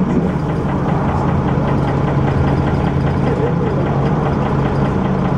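Dennis Arrow bus engine running steadily at a constant speed, with a regular knock, about five a second, over the engine note.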